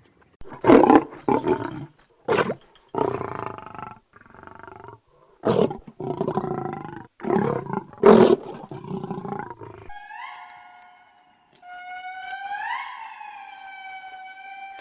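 An animal roaring in a series of loud, rough calls, one after another. About two-thirds of the way through they stop and give way to a clean, electronic-sounding pitched tone that glides up and settles, twice.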